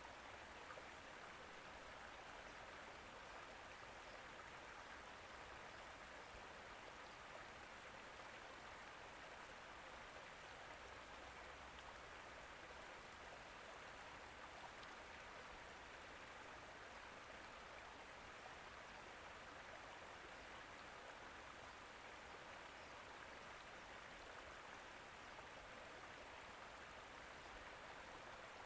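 Faint, steady rushing noise with no distinct events, like running water.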